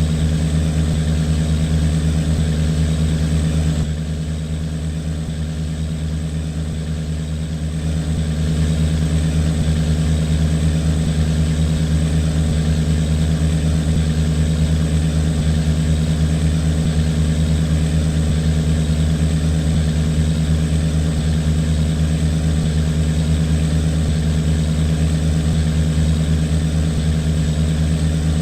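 Inboard engine of an unloaded river cargo boat running steadily at a constant low note. It drops a little in level about four seconds in and comes back up about eight seconds in.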